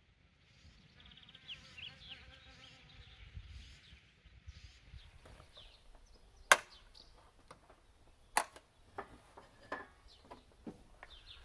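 A series of sharp clicks and knocks, the two loudest about six and a half and eight and a half seconds in, with smaller ones after. In the first few seconds there is faint high chirping.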